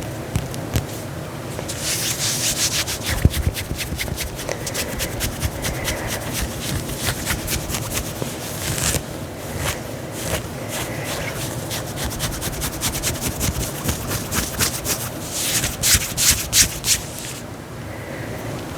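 Dress fabric being scratched and rubbed by hand in quick, rasping strokes. The scratching comes in runs, louder and faster about two, nine and sixteen seconds in.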